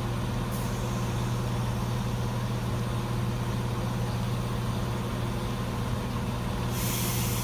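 Class 170 Turbostar diesel multiple unit's underfloor diesel engines running with a steady low hum as the train pulls away. A rushing hiss joins near the end.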